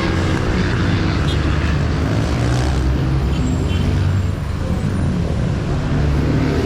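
A motor vehicle's engine running steadily, with road and wind noise, heard while travelling along a street.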